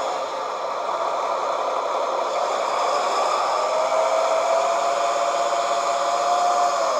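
Radio-controlled model Fendt 1050 tractor running: a steady mechanical whirr from its drive and sound system, with a whine that rises in pitch about three and a half seconds in and drops back near the end.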